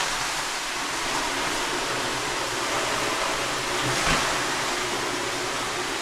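Steady hiss of steam coming off hot sauna stones after water has been poured on them, with the humidity rising. There is a single soft knock about four seconds in.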